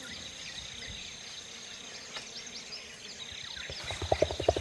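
Rainforest ambience: insects holding steady high drones while birds chirp. About four seconds in comes a quick run of about six short, low pops, the loudest sound.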